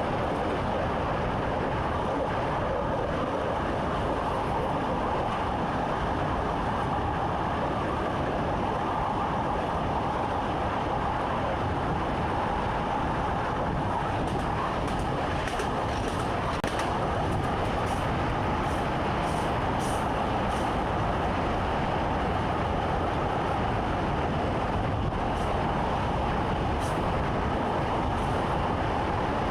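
Train running steadily, heard from inside the driver's cab: a continuous rumble with a steady hum near 1 kHz, and light clicks now and then in the second half.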